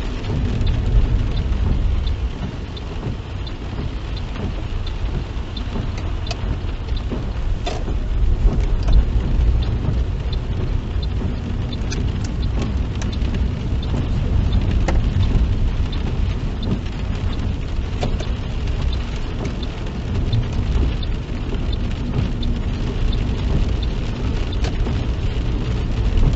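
Rain pattering on a moving car's roof and windscreen, heard inside the cabin over the steady rumble of road and engine noise, with scattered sharp drops ticking throughout.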